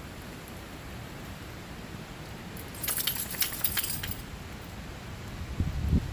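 A bunch of keys jangling and clinking for about a second, three seconds in, over a steady hiss, followed near the end by a few low thumps.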